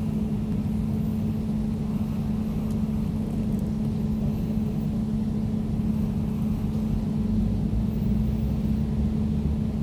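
Air conditioner running steadily: a low hum with one strong steady tone and a deeper rumble beneath it.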